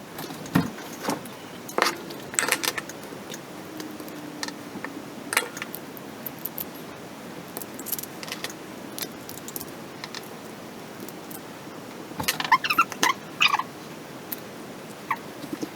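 Scattered sharp clicks, taps and light rattles of small hard parts being handled on a workbench, with a quick run of clicks and short squeaks near the end.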